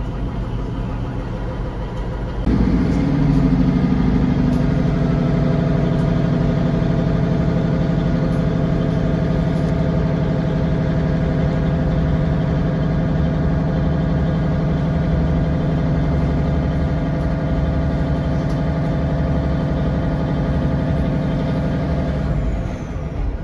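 British Rail Class 150/1 diesel multiple unit's underfloor Cummins diesel engine, heard from inside the coach. It runs at idle, then about two and a half seconds in opens up as the train pulls away. It keeps running loud and steady, and drops back just before the end.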